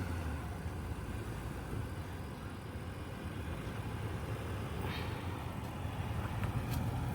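Nissan Patrol Y62's petrol V8 running at low revs with a steady low hum as the four-wheel drive creeps forward, towing a caravan.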